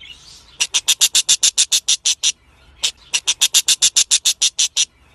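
A small animal chirping rapidly in two runs of short high-pitched chirps, about ten a second, with a lone chirp between the runs.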